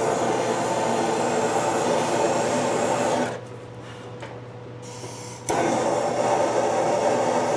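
A heating tool running with a steady rushing noise on the metal around a broken, rusted bolt. It cuts off suddenly about three seconds in and starts again about two seconds later.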